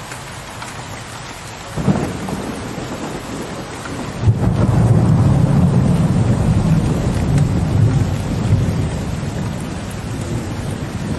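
Steady rain with thunder: a sharp clap about two seconds in, then a heavy, low rolling rumble of thunder from about four seconds that eases slightly near the end.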